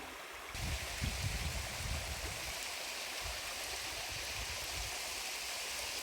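Steady outdoor rushing noise, with a few low thuds in the first couple of seconds.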